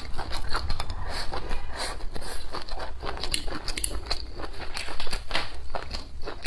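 Close-miked chewing of a mouthful of stir-fried dried green beans with cured pork: a dense, irregular run of short mouth clicks, several a second.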